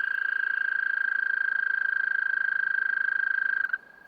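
An American toad giving its long mating trill: one steady high pitch, rapidly pulsed, that stops suddenly near the end.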